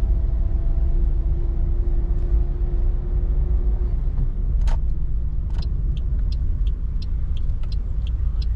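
Steady low road and engine rumble inside a moving car's cabin. About halfway through, the turn indicator starts ticking at an even pace, about two to three clicks a second.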